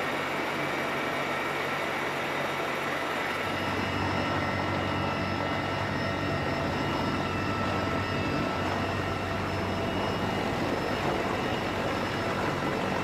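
Military helicopter turbines and rotors running steadily, a continuous roar with a high whine over it. About three and a half seconds in the sound shifts: the highest hiss drops away and a low hum comes up.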